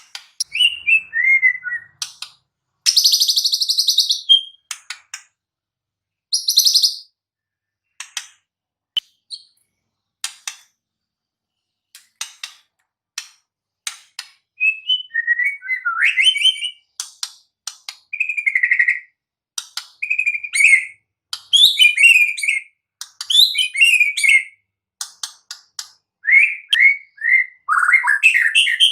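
White-rumped shama singing a varied song: short phrases of clear whistles and quick rising and falling notes, mixed with harsh hissy notes and sharp ticks, with brief pauses between phrases.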